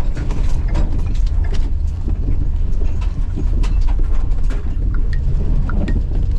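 Car driving along: steady low road and engine rumble, with scattered light clicks and rattles throughout.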